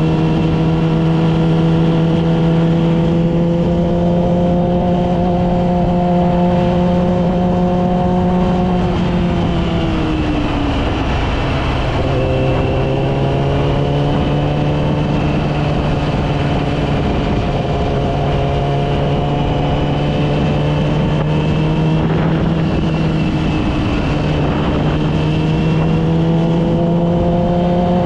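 Yamaha R6 inline-four engine running at steady cruising revs, dropping in pitch about ten seconds in as the bike slows, then gradually rising again as it picks up speed.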